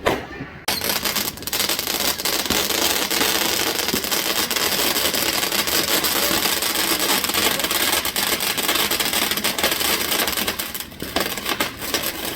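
A firework spitting out a dense, continuous crackle and hiss that starts suddenly about a second in and thins out near the end.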